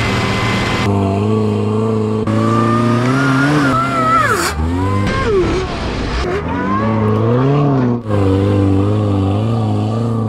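Eaton M62-supercharged 2.5-litre Jeep four-cylinder engine being revved several times, its pitch rising and falling, with a high supercharger whine that climbs and drops with the revs.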